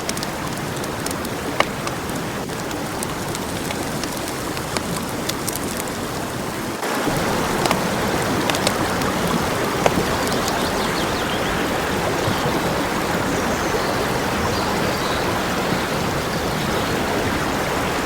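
Food sizzling over a campfire: a steady hiss with scattered sharp pops and crackles, which steps up abruptly in loudness about seven seconds in.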